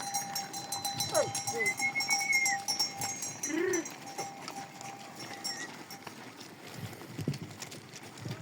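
Sheep and goats in a milking herd calling: short bleats and scattered animal calls, with one clear bleat about three and a half seconds in, busiest in the first half.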